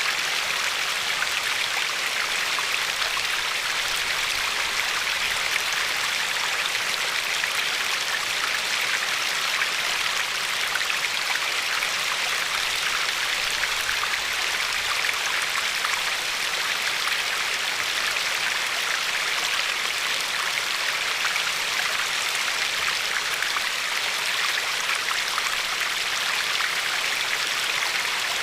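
A river's steady rushing and lapping over a pebble shore, an even splashing hiss with fine flickers throughout.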